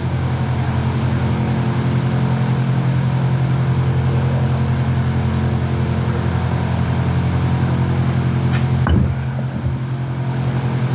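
A machine running with a steady low hum, with one sharp knock about nine seconds in.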